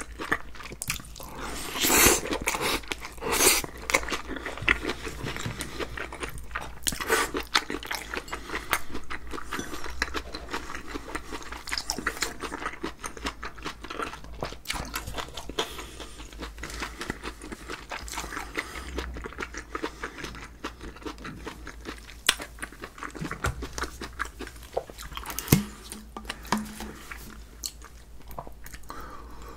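Close-miked chewing of a mouthful of spicy mixed sea squirt and raw vegetables, with crisp crunches and wet mouth sounds, loudest in the first few seconds.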